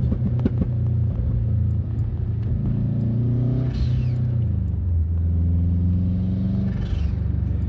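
Subaru EJ255 turbocharged 2.5-litre flat-four running under hard acceleration with a decatted exhaust, a loud racket. The engine note rises in pitch, drops sharply about five seconds in as it changes gear, then holds steady.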